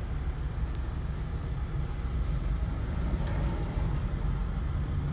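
An engine running steadily at idle, a low even rumble with no change in speed.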